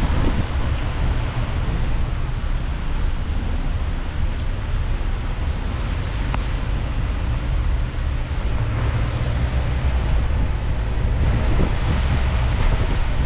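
Car driving, a steady low rumble of road noise with wind on the microphone, and a single sharp click about six seconds in.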